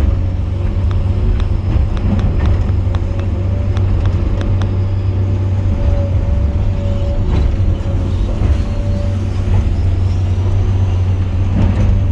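Excavator's diesel engine running steadily at working revs, with a steady whine above the drone and a scatter of light clicks and rattles.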